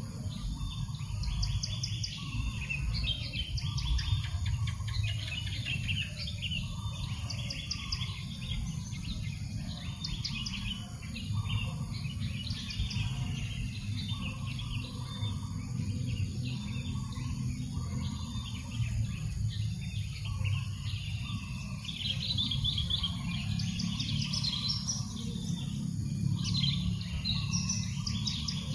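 Several birds chirping and trilling continually in quick, high calls, with softer lower calls repeating, over a steady low rumble of breeze.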